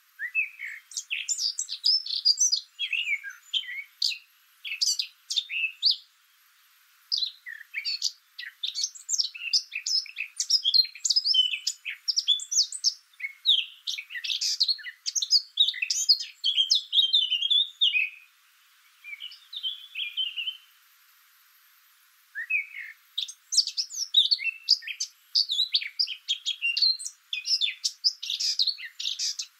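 Small birds chirping: a rapid, busy run of short high calls, with brief pauses about six, eighteen and twenty-one seconds in.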